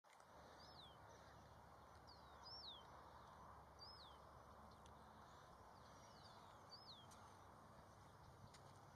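Faint bird calls: a short, high, downward-sweeping chirp repeated about every one to two seconds, sometimes in pairs, over a steady faint outdoor hush.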